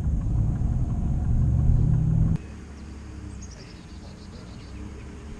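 Car engine running with a deep, low rumble that cuts off abruptly a little over two seconds in, leaving quieter background noise.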